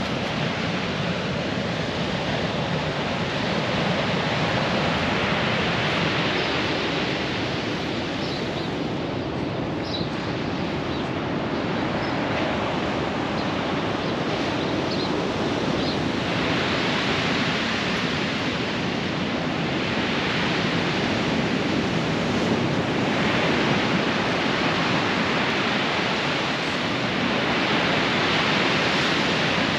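Ocean surf breaking on a beach, a continuous wash of noise that swells several times as waves come in.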